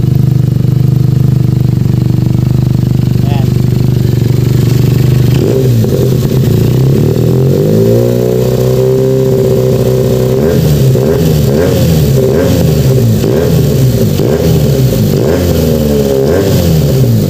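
Benelli 302S parallel-twin engine through an Akrapovic exhaust with a twisted mid-link pipe, idling steadily, then revved from about five seconds in: one longer rise and fall, then a run of quick throttle blips, settling back to idle near the end. The exhaust note is bassy and full.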